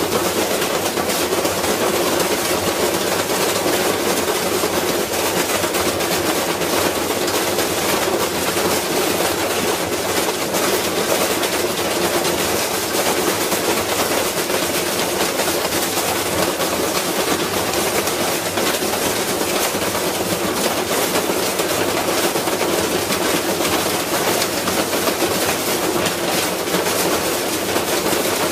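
Washing machine spinning with a heavy object loaded in its drum, badly out of balance, so that it rattles and bangs continuously as it wrecks itself.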